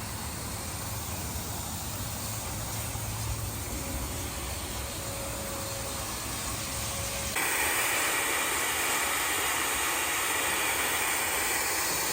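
Steady road and engine noise of a moving car, a low rumble under a hiss. About seven seconds in it cuts abruptly to a brighter steady hiss with little low rumble.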